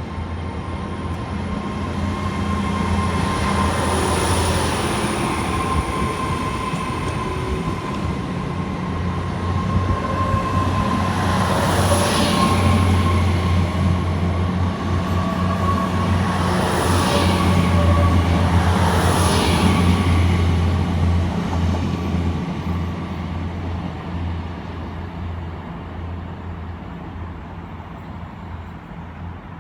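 Great Western Railway diesel passenger train pulling out of the station, its engines humming steadily with a high whine. It grows louder as it moves off and passes, then fades over the last several seconds.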